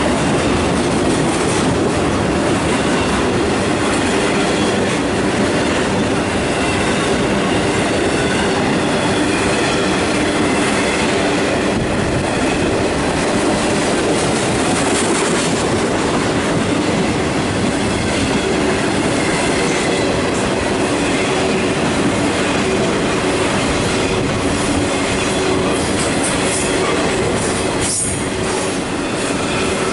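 Intermodal freight train's trailer-laden flatcars rolling past: a steady rumble of steel wheels on rail with clacking over the rail joints and some thin wheel squeal, and a few sharp clicks near the end.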